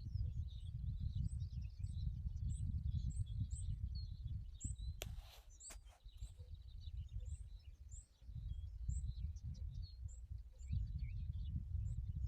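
Small birds chirping outdoors, one repeating a short high call a little under twice a second, over a gusty low rumble of wind on the microphone that drops away for a few seconds in the middle. A couple of sharp clicks come about five to six seconds in.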